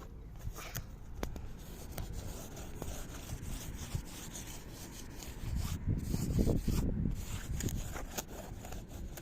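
Rubbing and scraping noise with scattered small clicks, growing louder for a moment about six to seven seconds in.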